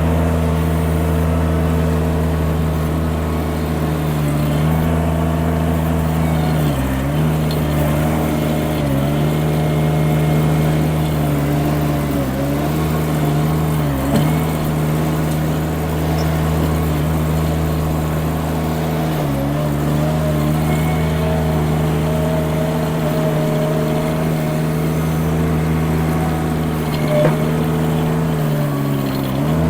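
Mini skid steer engine running at steady high throttle, its pitch dipping briefly about six times as the engine pulls down under hydraulic load while the loader works dirt and stone.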